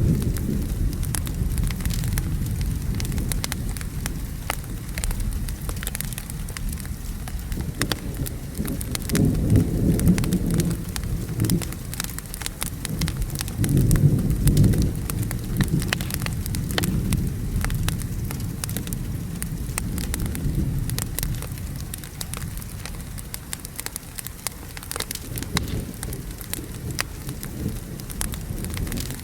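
Steady rain with a low rolling rumble of thunder, swelling twice about a third and half of the way in, and a log fire crackling with many small snaps over it.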